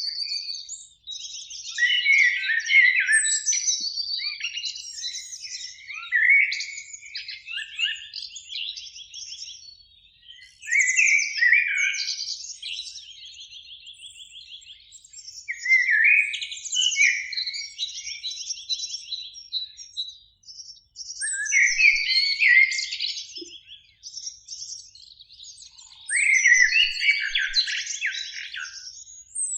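Common blackbird (Amsel) singing: about six separate song phrases, one every four to five seconds, each made of fluting whistles that run into high, rapid twittering.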